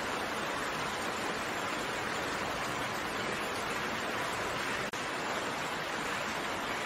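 Steady rain, an even hiss of raindrops with no distinct drops or thunder standing out, and a momentary dropout in the sound about five seconds in.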